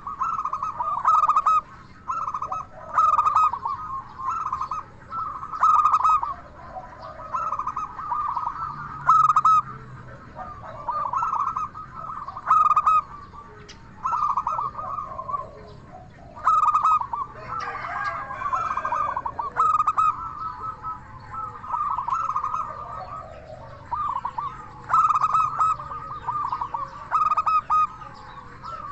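Zebra dove (perkutut) cooing over and over: rapid, rolling staccato coos in phrases of about one to two seconds, repeated throughout, with short high chirps among them.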